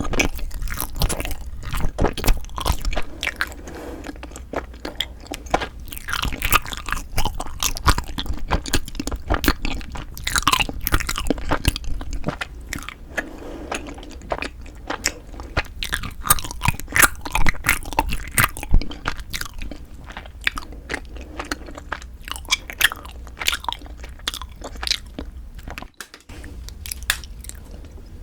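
Close-miked mouth sounds of eating: chewing and biting food, with many short crisp clicks and crunches.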